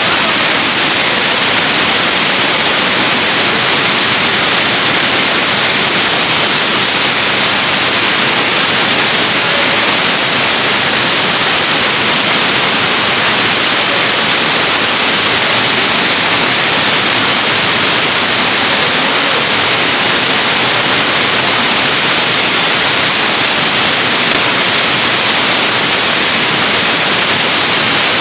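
Waterfall: a loud, steady rush of falling water, an even hiss that does not change.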